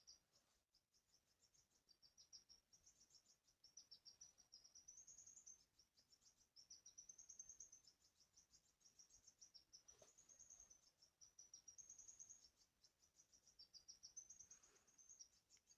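Crickets chirping in fast, high-pitched pulsed trills that repeat in short phrases of a second or two, with a couple of faint knocks.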